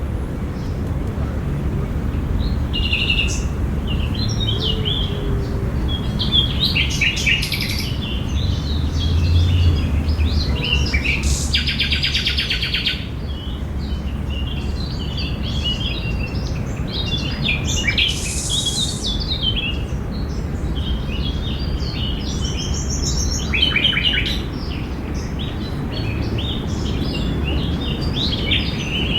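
Several birds chirping and singing in a park, with many short calls and trills overlapping, over a steady low rumble of background noise.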